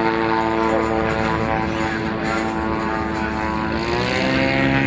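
Propeller aircraft engine running steadily, its pitch dropping about four seconds in.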